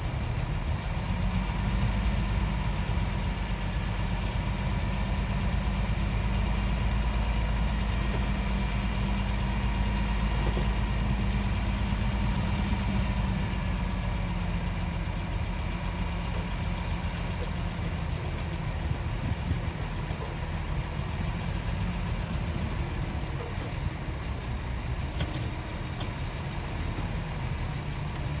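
Heavy diesel earthmoving machinery running steadily with a deep engine rumble. The rumble is stronger for the first dozen seconds, then eases off.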